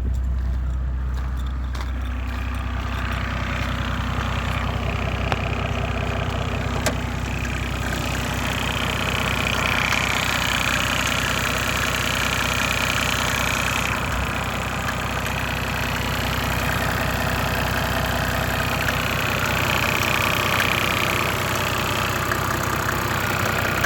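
Mercedes OM606 3.0-litre inline-six turbo diesel idling steadily with a fine, even diesel clatter, still cold shortly after a sub-zero cold start. The clatter grows brighter and louder about a third of the way in.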